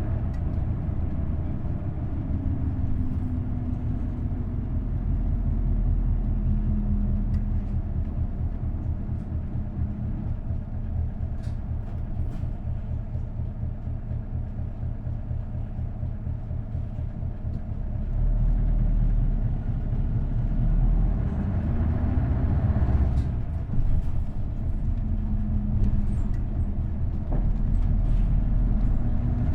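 Isuzu Erga city bus's V8 diesel engine running under way, driven through a five-speed manual gearbox. The engine note rises and falls several times, and it gets louder about two thirds of the way through.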